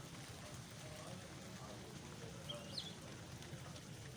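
Birds calling: a couple of short, high chirps about two and a half seconds in, with fainter wavering calls over a steady low hum.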